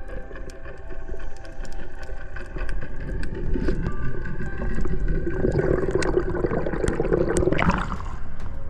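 A motorboat under way: the engine runs steadily while water rushes and splashes against the hull, louder from about halfway through.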